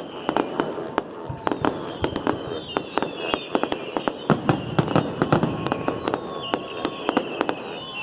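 Fireworks display: a rapid, irregular run of sharp bangs and crackling pops, several a second, with a few faint whistles gliding high above.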